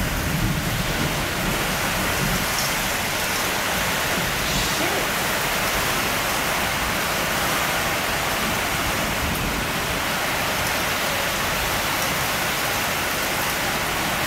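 Heavy rain pouring down in a thunderstorm, driven by strong wind, a steady unbroken rush of noise.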